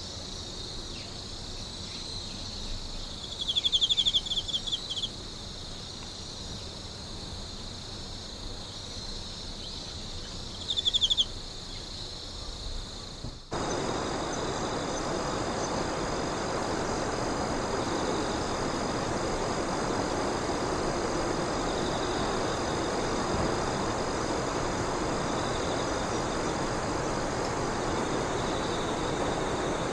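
Singing insects, crickets among them, chirping steadily, with two louder trilling bursts about four and eleven seconds in. About halfway through, the sound cuts abruptly to a take where a steady low rushing noise sits under the insect song.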